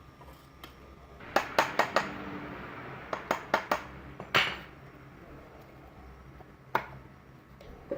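Metal parts clinking and knocking together as they are handled: a quick run of four sharp strikes about a second and a half in, another run of four around three seconds in, a louder one soon after, and a single one near the end.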